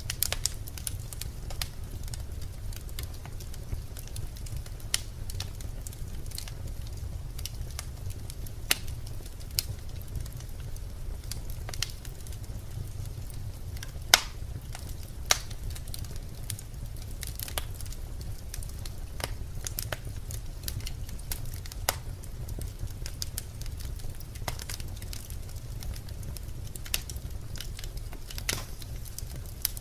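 Birch logs burning in a fireplace: irregular sharp crackles and pops over a steady low rumble. One pop about fourteen seconds in is louder than the rest.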